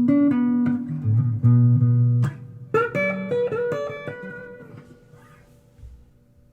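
Guitar improvisation in a blues style: low notes plucked for about two seconds, then a quick run of higher notes that rings out and fades away near the end.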